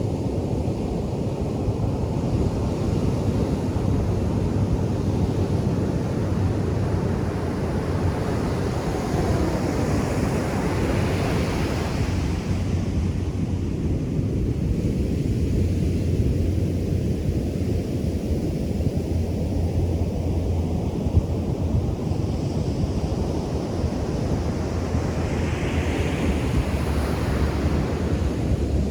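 Ocean surf on a sandy beach: a steady low wash of water, with a wave breaking and surging brighter about ten seconds in and again near the end.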